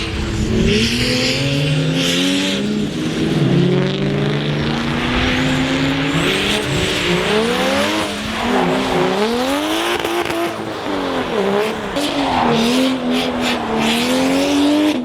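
Drift car engine revving hard, its pitch climbing and dropping again and again as the throttle is worked through the slide, over a rushing noise of tyres.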